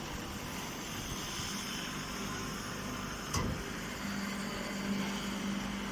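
Chopped-hay bagging baler running with a steady mechanical hum, and a single knock about halfway through.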